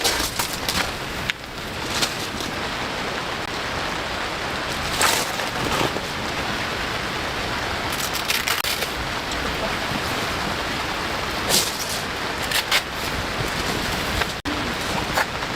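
Steady rain falling, a dense even hiss with louder single drops striking every few seconds.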